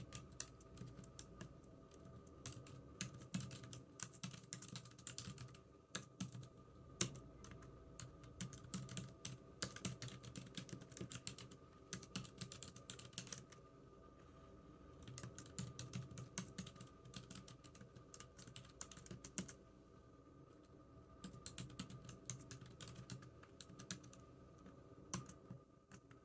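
Typing on a computer keyboard: quick runs of key clicks in bursts, with short pauses between them, over a faint steady hum.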